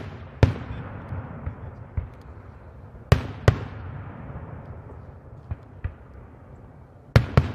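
Daytime fireworks: aerial shells bursting with sharp bangs, about eight at irregular intervals and often in quick pairs. The loudest are a little after three seconds and near the end. Each bang trails off in a rumbling echo.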